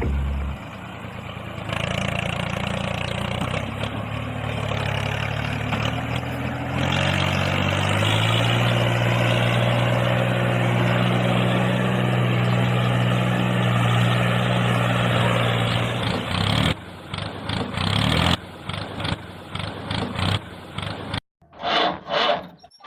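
An engine running with a low steady drone, rising in pitch over the first several seconds and then holding steady, before turning choppy and uneven near the end.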